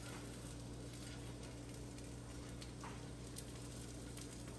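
Egg-and-pancake batter frying quietly under a glass pan lid: a faint, steady sizzle with a low steady hum behind it.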